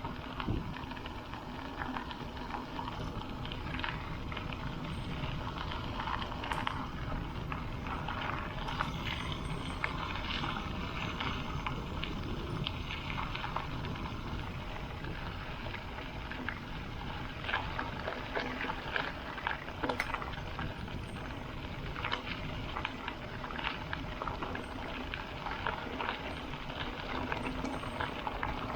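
Mountain-bike tyres rolling fast over gravel on a coasting descent: a steady crunching hiss with scattered sharp pings and crackles from the stones, under a constant low rumble of wind on the microphone.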